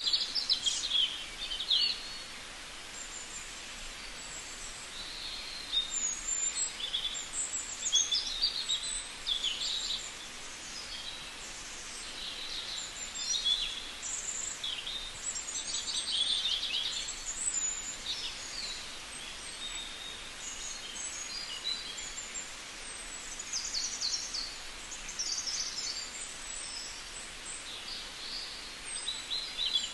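Several songbirds chirping and singing, with many short high calls and some rapid trills coming in bursts, over a steady outdoor hiss.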